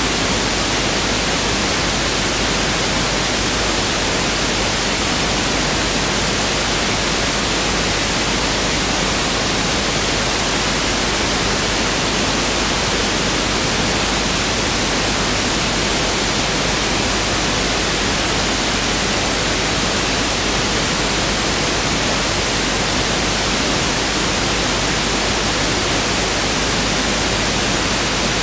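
Pink noise (1/f noise) test signal: a steady, even hiss spread across the whole frequency range, with no change.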